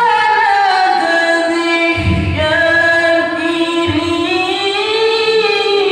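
A single voice chanting Quran recitation in long, melismatic held notes that slide slowly up and down in pitch. Two brief low thumps come about two and four seconds in.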